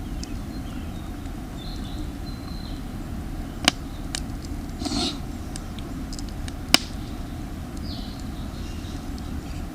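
Campfire of damp firewood burning with a few sharp pops several seconds apart and a short hiss about five seconds in, over a steady low rumble; faint bird chirps.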